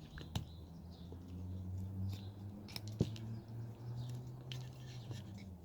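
Carving knife slicing and paring hard wood: scattered short cuts and scrapes, with two sharper clicks about a third of a second in and about three seconds in, over a steady low hum.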